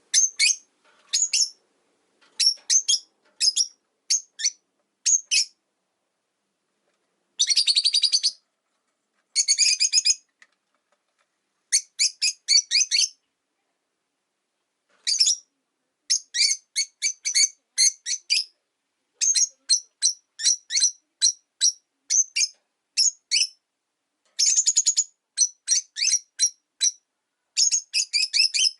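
Rosy-faced lovebirds calling: rapid runs of short, shrill chirps in clusters, with pauses of a second or two between runs.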